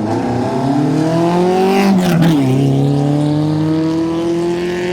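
Historic racing car's engine accelerating hard, its pitch climbing, with a quick upshift about two seconds in, then climbing again in the next gear.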